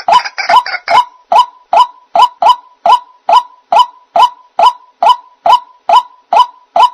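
White-breasted waterhen (ruak-ruak) calling a long run of short, identical notes, a little over two a second, each rising quickly in pitch at its start. During the first second the notes overlap a busier jumble of calls before settling into the even series.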